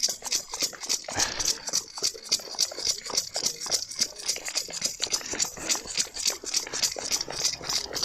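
Rapid, steady hand clapping, about six claps a second, for the NHS and key workers.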